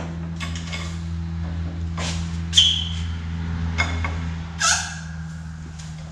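A few sharp metal knocks and clinks as steel exhaust pipe and bending tools are handled, two of them ringing briefly, over a steady low hum.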